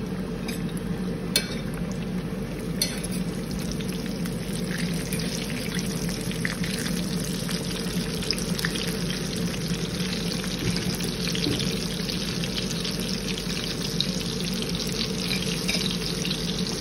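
Breaded courgette slices sizzling and crackling steadily as they shallow-fry in hot oil in a stainless steel pan, with a few sharp clicks in the first three seconds, over a steady low hum.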